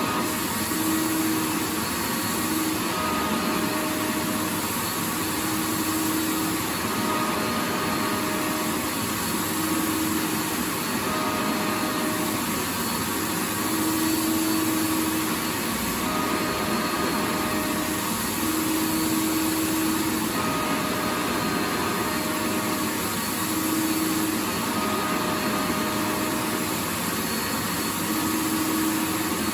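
Vacuum cleaner motor running continuously: a dense, steady rushing hiss with a motor whine that fades in and out every couple of seconds.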